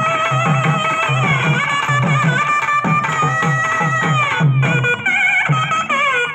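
Tamil melam ensemble playing a film-song tune: a reed pipe carries a wavering, ornamented melody over a steady pattern of low drum strokes. About four and a half seconds in, the melody slides down and breaks off briefly, then starts again.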